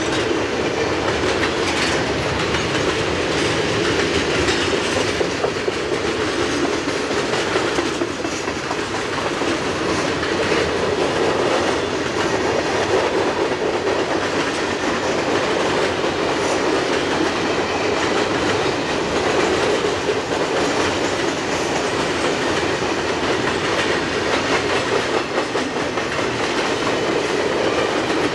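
Mixed freight train rolling steadily past, its car wheels clacking over the rail joints amid a continuous rumble of steel wheels on rail.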